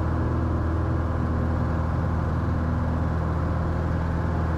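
Steady drone of a 1967 Cessna 172H's six-cylinder Continental engine and propeller, heard in the cockpit at climb power just after takeoff.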